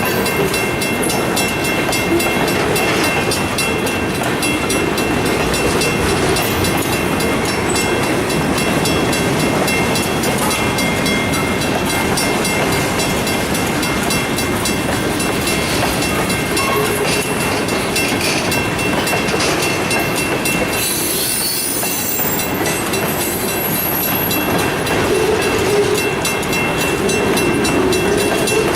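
Freight train cars rolling past, with steady wheel rumble and clatter on the rails and a brief lull about two-thirds of the way through.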